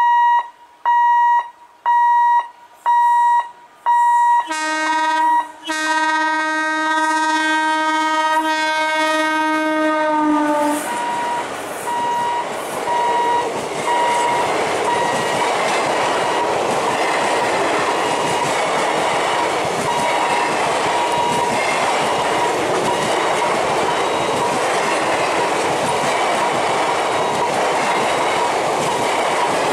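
Five loud beeps of one electronic tone about a second apart, then an Indian Railways passenger train's horn in one long blast that drops slightly in pitch at its end. The train then passes close by with a steady rumble and wheel clatter.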